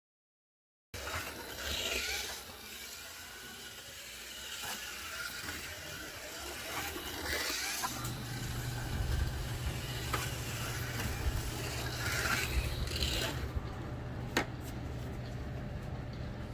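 1/24-scale slot car's small electric motor and metal gears running as it laps a track, swelling in level each time it passes, about every five seconds, with occasional sharp clicks. A steady low hum joins in about halfway through.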